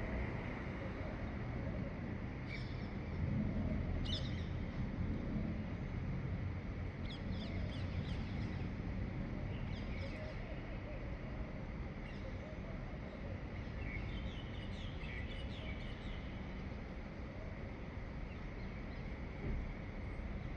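Wild birds giving short, scattered chirps and calls at dawn, over a steady low background rumble.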